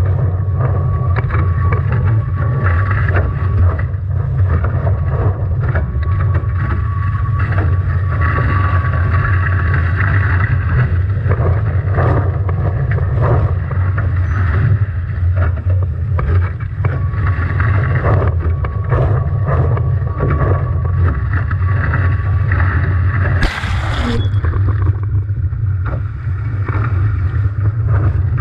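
Heavy wind buffeting the microphone and water rushing and slapping against the hull of a Nacra 17 foiling catamaran sailing hard in strong wind and waves, with a steady low rumble and constant irregular crackle of spray. One sharper crash stands out a little over twenty seconds in.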